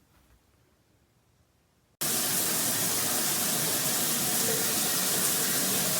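Near silence, then about two seconds in a shower's spray of water starts abruptly and runs on as a loud, steady rush.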